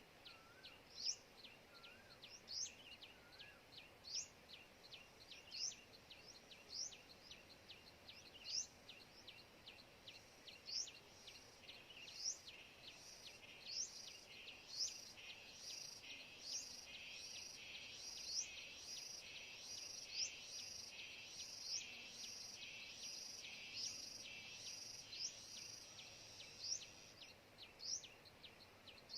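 Faint outdoor wildlife sound: a short, high rising chirp repeated about once a second over a fast, even insect ticking, with a steady high insect buzz joining through the middle stretch.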